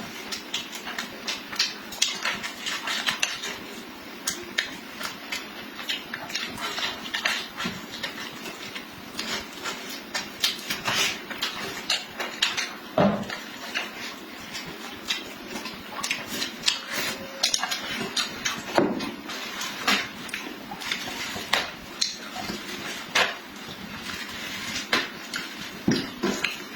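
Close-miked eating sounds: chewing and lip-smacking in a quick, irregular run of wet clicks, with a few louder knocks of utensils against a dish.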